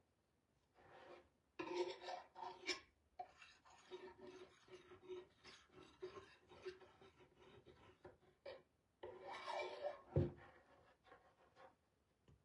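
Faint rubbing and scraping of a painting tool working paint on a surface, in uneven strokes. There is a single soft thump about ten seconds in.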